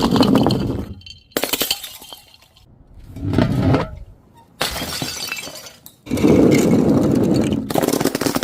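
Glass bottles shattering in a series of about five separate crashes, each starting suddenly; the last, about three-quarters of the way through, is the longest, lasting around two seconds.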